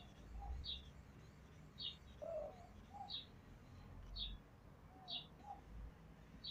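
A bird chirping over and over, a short, slightly falling high chirp about once a second, with a few lower, softer calls in between; faint overall.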